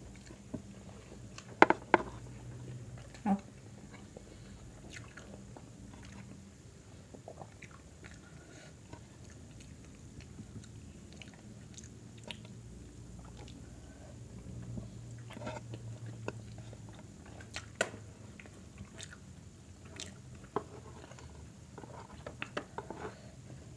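Close-miked eating: chewing and biting food, with scattered small clicks and a few louder sharp knocks over a faint low hum.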